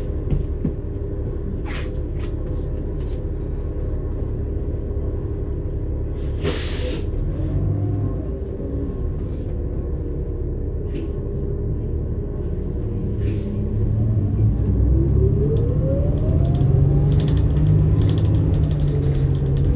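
A New Flyer XN60 articulated bus with a Cummins-Westport ISL-G natural-gas engine and Allison B500R transmission running with a steady rumble. A short burst of air hiss comes about six and a half seconds in. From about fourteen seconds the engine grows louder and a whine rises steadily in pitch as the bus speeds up.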